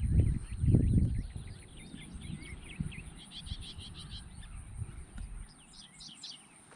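Wind buffeting the microphone, loudest in two rumbling gusts in the first second or so and dying away near the end, under small birds chirping in quick runs of high notes.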